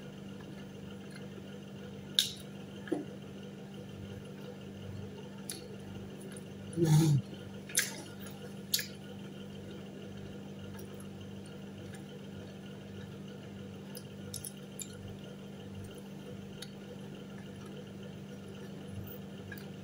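A person chewing pizza: faint wet mouth sounds with a few scattered sharp clicks and smacks, over a steady low hum.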